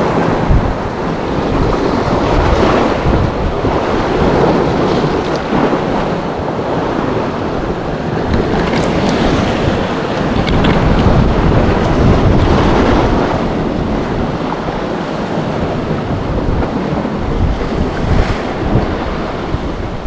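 Wind buffeting the microphone over the wash of sea water and small waves, rising and falling in gusts.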